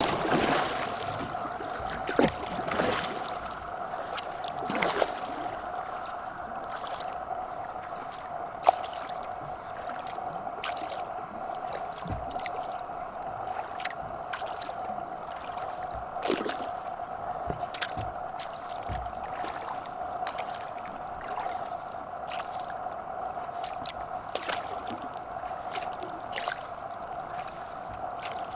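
Kayak paddling: irregular paddle strokes and splashes in lake water, a few louder ones in the first five seconds, over a steady hum.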